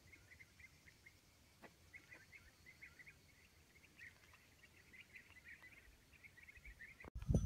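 Faint chirping of small birds: many short, quick calls in an irregular stream, with a single light knock about one and a half seconds in. The sound cuts off suddenly near the end.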